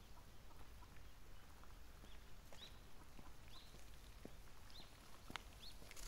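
Faint, short, high bird chirps, about five of them, each rising and then dropping, starting about two seconds in, with a sharp click near the end over a low background rumble.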